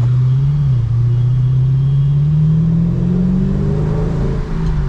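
Chevrolet Camaro engine and exhaust pulling under acceleration. The engine note climbs steadily for about three seconds, with a brief dip about half a second in and a drop near the end, as at gear changes.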